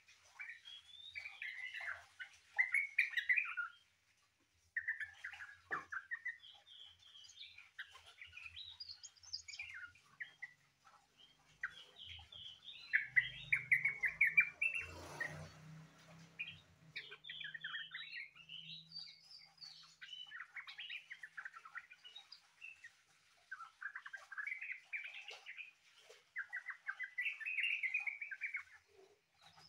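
Sooty-headed bulbul singing in long, varied warbling phrases with short pauses, a song likened to a greater green leafbird's. About halfway through, a low rumble and a brief rush of noise sound under the song.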